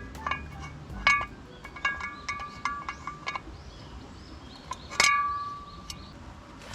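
A series of light clinks and chimes, each ringing briefly at a few bright pitches; the loudest, about five seconds in, rings on for about a second.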